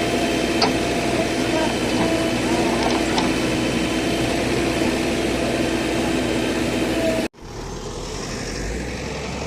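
Heavy machine's diesel engine running steadily, with voices in the background. About seven seconds in the sound cuts off abruptly and resumes quieter, as a low engine rumble.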